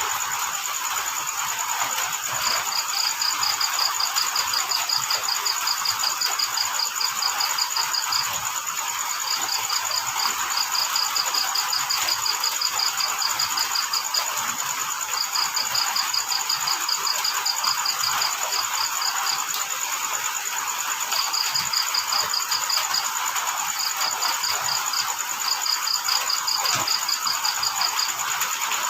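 Crickets chirping in trains of evenly spaced high pulses, in bouts of a few seconds with short pauses between, over a steady high insect drone and a steady hiss.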